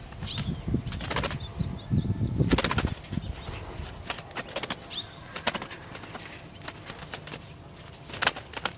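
A small bird trapped in a metal enclosure flutters its wings, with sharp knocks and rustles. It gives a few short rising chirps. The fluttering and knocking are heaviest in the first three seconds.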